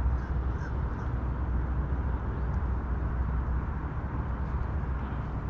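Steady low outdoor rumble with no distinct events, while the angler re-baits his hook.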